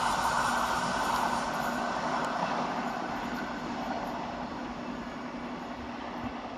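Class 700 Thameslink electric train passing, its running noise on the rails fading steadily as it moves away.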